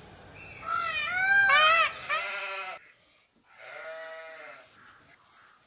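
An animal calling: a quick run of short rising-and-falling cries, then a quavering, bleat-like call, and after a brief pause a shorter call.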